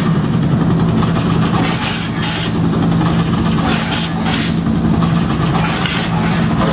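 Engines of stunt picture cars running steadily, with several short, sharp bursts of noise a second or two apart from the stunt effects.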